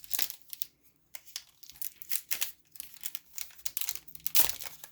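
Wrapper of a 2020 Topps Archives baseball card pack being torn open and crinkled by hand: irregular short rustles, the loudest about four and a half seconds in.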